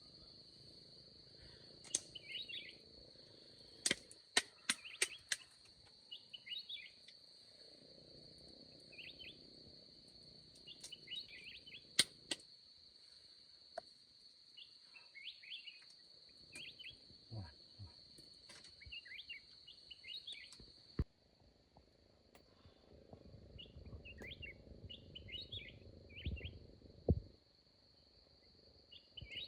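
Forest ambience: a steady high insect drone with repeated short bird chirps. A few sharp knocks come in quick succession about four seconds in and another near twelve seconds, over patches of soft rustling.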